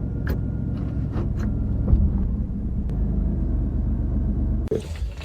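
A vehicle engine running at a steady idle: a low, even rumble with a few light clicks over it. It cuts off abruptly near the end.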